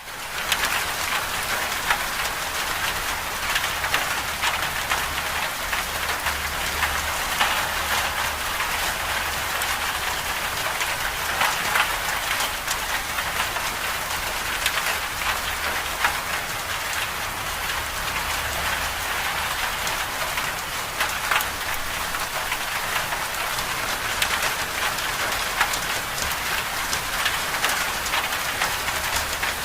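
Steady storm rain falling on a surface: a dense hiss dotted with many small drop ticks, over a low rumble that swells and drops back now and then.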